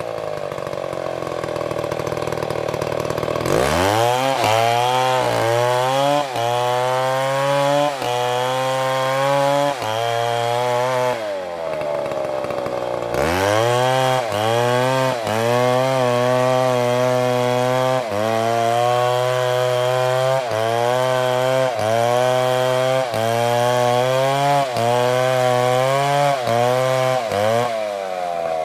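Chainsaw idling, then revved up and cutting into wood, its pitch dipping again and again under load. It falls back to idle for about two seconds near the middle, then revs up and cuts again before easing off near the end.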